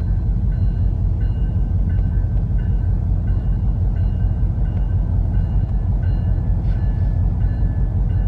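Train running: a steady low rumble with a faint high ringing tone and a regular click about every two-thirds of a second.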